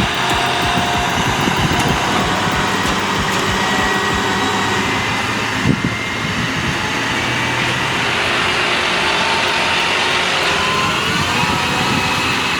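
Heavy truck engines running steadily in slow road traffic, a continuous mechanical drone with slight changes in pitch.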